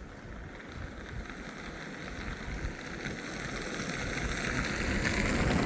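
A car approaching along the road, its tyre noise growing steadily louder.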